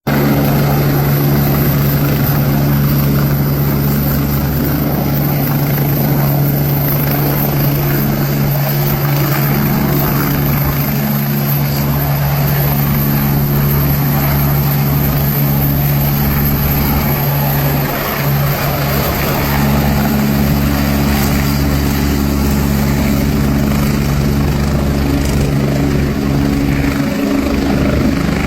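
Agusta helicopter running at power, with a loud, steady rotor drone and a low hum, as it moves backward and begins its takeoff.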